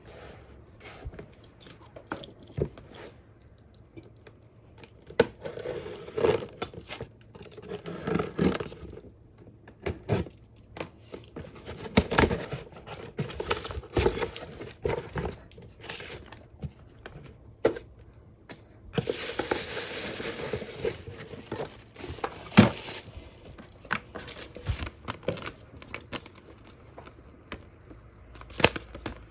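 Product packaging being handled and opened by hand: crinkling and tearing, with scattered clicks and knocks. There is a longer stretch of tearing about two-thirds of the way through.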